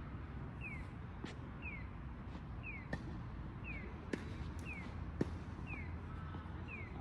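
Sharp knocks of tennis balls struck by rackets, four times, the last the loudest. Behind them a short, high, falling chirp repeats evenly about once a second over a low background rumble.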